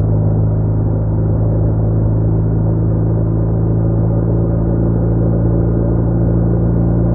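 BMW R1200R boxer-twin motorcycle engine at a steady cruise, a muffled, unchanging drone with no rise or fall in pitch.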